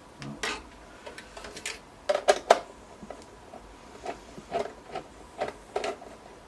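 Clicks and knocks of a desktop computer's case and parts being handled and unscrewed during disassembly, loudest in a quick cluster about two seconds in, then lighter taps.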